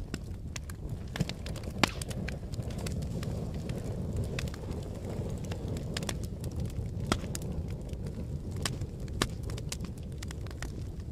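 A fire crackling: a steady low rumble of burning with irregular sharp pops and snaps, two of them louder a little over a second in and just before two seconds in.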